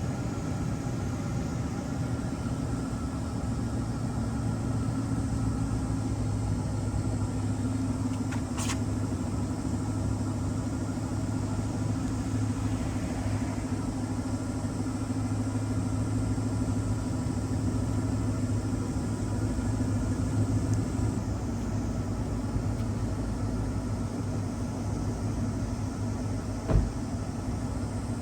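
Dodge Challenger's 5.7 HEMI V8 idling steadily through its stock exhaust after a cold start, with a low, even rumble. A brief click sounds about a third of the way in and a short knock near the end.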